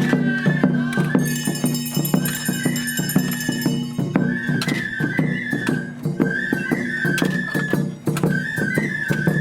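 Japanese festival music: a high bamboo flute melody played over fast, steady drum beats, with a ringing metallic strike sounding for a few seconds about a second in.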